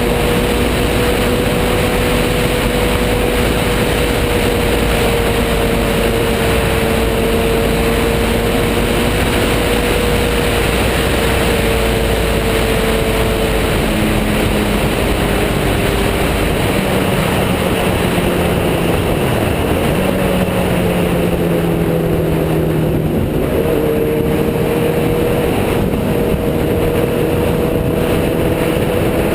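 Motorcycle engine running under way, its pitch steady at first, easing off about halfway through and climbing again near the end, over a loud steady rush of wind noise.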